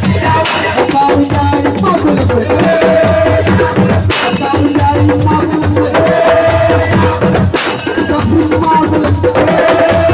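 Assiko band music: dense drumming and percussion under held melodic lines, with a bright crashing accent about every three and a half seconds.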